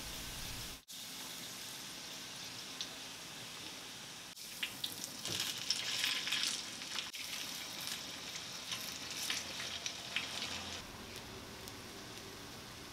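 Shredded potato pancakes frying in hot oil on a flat griddle pan: a steady sizzle with scattered crackles and spits. It grows busier from about four to seven seconds in, as the pancakes are turned, and cuts out briefly three times.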